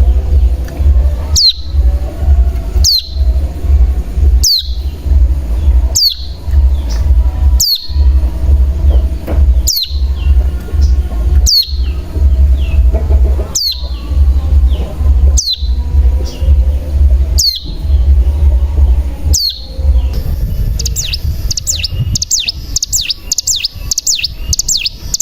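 Ciblek gunung (a mountain prinia) calling: a sharp, high, down-slurred note repeated every second or two over a steady low rumble. About twenty seconds in it breaks into a fast run of high notes, the rapid 'ngebren' trill.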